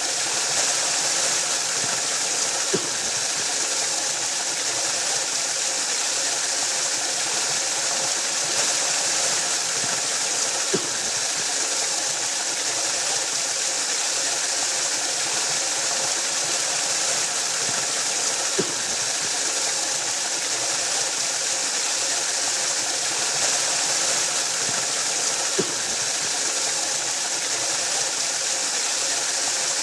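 Waterfall rushing steadily, an even hiss of falling water, with a faint brief click about every eight seconds.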